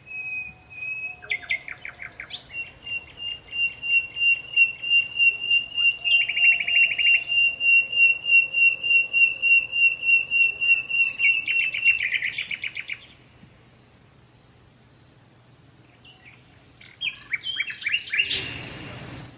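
Songbird singing rapid trilled phrases, including one long even trill of about eight seconds, then a pause of a few seconds before more chirps near the end. A faint steady high tone runs underneath, and a short burst of rushing noise comes just before the end.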